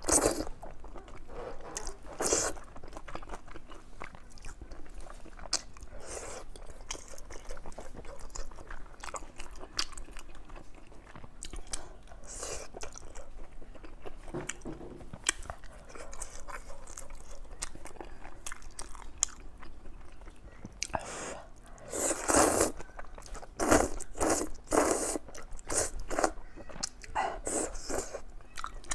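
Close-miked eating: a person biting and chewing food with moist crunches and mouth smacks, the bites loudest and most frequent about three-quarters of the way through.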